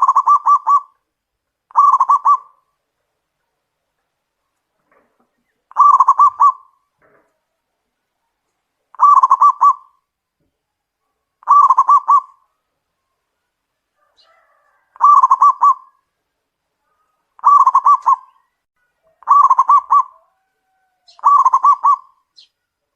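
Zebra dove (perkutut) cooing: about nine short phrases of quick staccato coo notes, each under a second long, repeated every two to three seconds.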